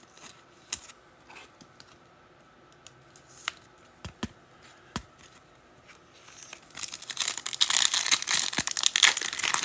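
A few faint clicks and taps of trading cards being handled, then from about six and a half seconds in, the crinkle and tear of a card pack's wrapper being ripped open.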